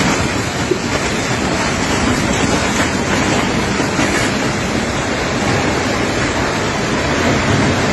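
Strong wind rushing steadily and buffeting the microphone in a tornado.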